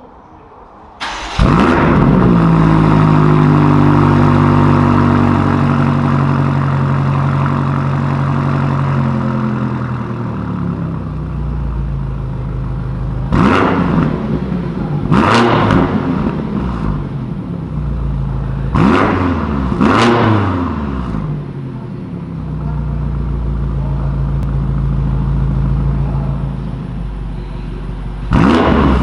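BMW M5 (F90) twin-turbo 4.4-litre V8 through an ARP valved aftermarket exhaust: it starts about a second in with a loud flare, the revs settle slowly down to idle, then four quick throttle blips, and the revs rise again near the end.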